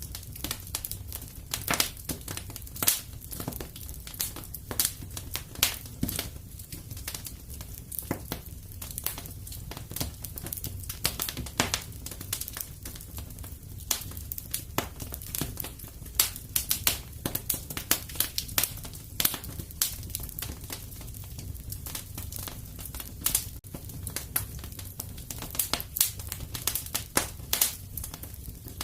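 Wood fire in a fireplace crackling, with frequent sharp pops and snaps at irregular intervals over a low steady rumble.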